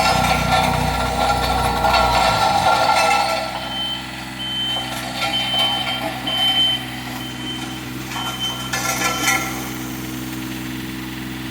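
Bomag 120 AD-5 tandem roller's diesel engine running hard, then dropping to a steady idle about two and a half seconds in. Its reverse alarm beeps several times in the middle, a few short high beeps with uneven gaps.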